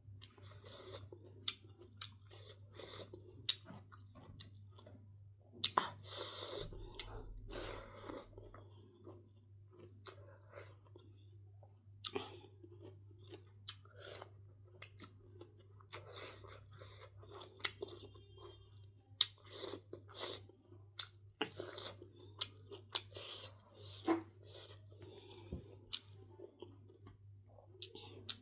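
Close-miked mouth sounds of a person chewing food, with irregular crunches, wet clicks and lip smacks.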